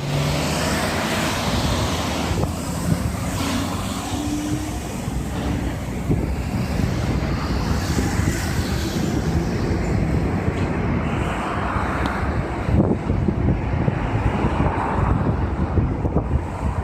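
Wind buffeting the microphone in an irregular low rumble, over the noise of road traffic going by.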